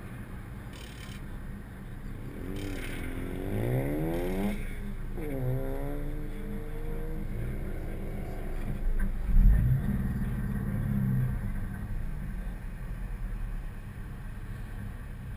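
A car engine accelerating hard through the gears on the autocross course: the revs climb, drop at a shift, and climb again, over a steady low rumble. A short low thump about nine and a half seconds in is the loudest sound.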